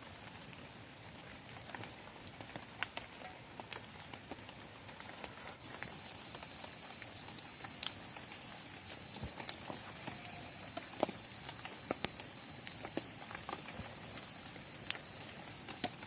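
Insects trilling steadily in a high, continuous tone. A second, louder insect joins at a lower pitch about a third of the way in. Scattered drips or taps sound over them.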